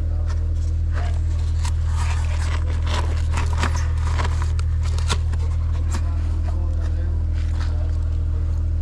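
A steady low mechanical drone, with many short scrapes and clicks over it, thickest in the middle.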